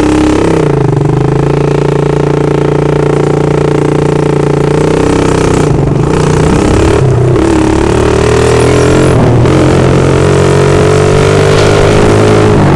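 110cc ATV engine running with no muffler, its exhaust loud and open, the engine speed dipping and picking back up a few times as the throttle changes while riding.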